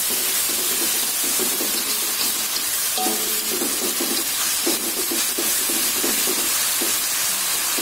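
Chopped tomatoes and onion sizzling as they are sautéed in a wok, with a metal spatula scraping and stirring them in repeated strokes over a steady frying hiss.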